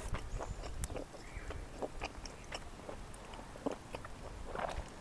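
Close-miked chewing of a mouthful of smoked pork and rice, with scattered small clicks of mouth noise.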